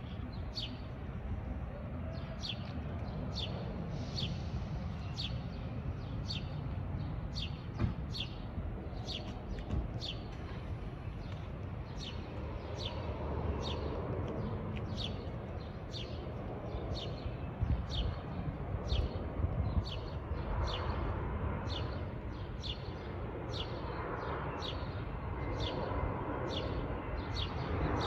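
A small bird chirps over and over, a short falling note about one and a half times a second, over a low city rumble. In the second half the rush of a descending jet airliner's engines grows faintly beneath it.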